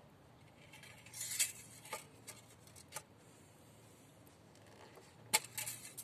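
Light clicks, clinks and rattles of small hard objects being handled, in a cluster starting about a second in and another near the end, the sharpest click near the end.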